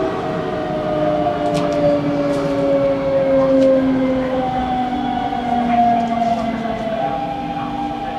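Electric train's traction motors whining as it brakes, several tones falling slowly in pitch as it slows, then stepping up to a higher whine about halfway through and falling again, over wheel and rail noise with a few faint clicks.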